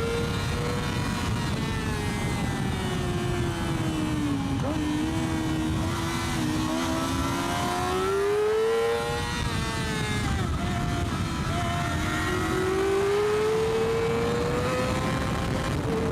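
Yamaha R6 600cc inline-four sportbike engine at high revs, its note falling over the first few seconds as the bike slows, climbing again, then rising steadily under acceleration near the end. Wind rush runs underneath.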